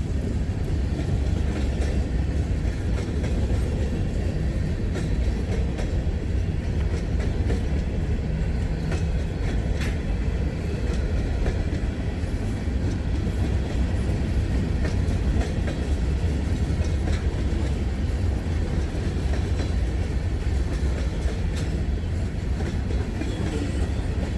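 Freight train of rock-loaded ballast cars rolling steadily past, with a constant low rumble of the wheels and occasional clicks over the rail joints.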